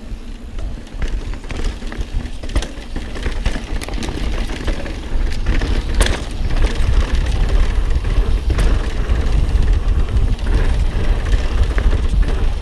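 Mountain bike riding down a rough dirt trail: wind rumbles on the helmet camera's microphone over tyre noise, with sharp knocks and rattles as the bike hits rocks and bumps. It grows louder as speed builds, with the hardest knock about halfway through.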